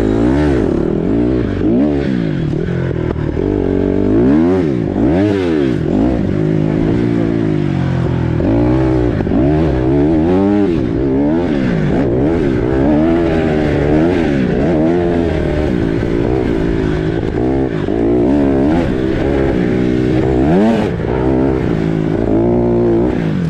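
Dirt bike engine revving up and falling back over and over, its pitch climbing and dropping roughly every second or two.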